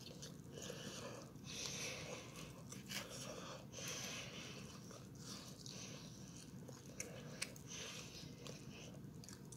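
Faint chewing and biting on a sauced buffalo chicken wing, eaten off the bone by hand, in separate mouthfuls about a second apart with small sharp clicks between them.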